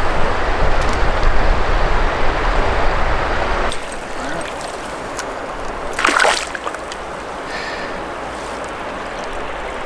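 River water rushing loudly, cutting off abruptly a little under four seconds in to a quieter, steady river sound, with a short splash-like burst at about six seconds.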